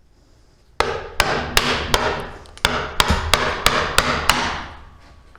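About ten hammer blows in quick succession, roughly three a second over three and a half seconds, each ringing briefly before the next.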